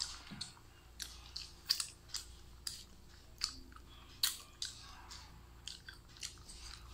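A person chewing balut, the boiled fertilized duck egg, close to the microphone: irregular sharp, wet mouth clicks and smacks, about two a second.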